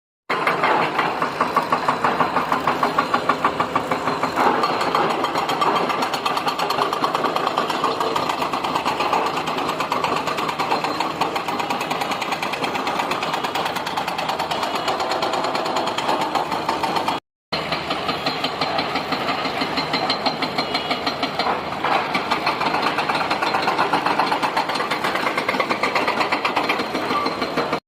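An engine-driven machine running steadily with a rapid pulsing beat. It breaks off for a moment about seventeen seconds in, then carries on.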